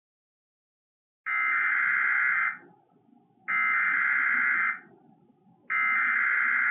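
Emergency Alert System SAME header: three identical bursts of shrill, buzzy data tones, each about a second and a quarter long with about a second's pause between them, starting about a second in. This is the digital header that opens an EAS alert, here for a severe thunderstorm watch.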